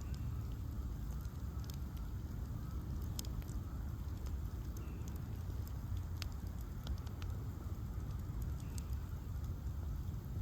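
Bonfire of ash logs burning, with a steady low rumble and scattered sharp crackles and pops at irregular intervals.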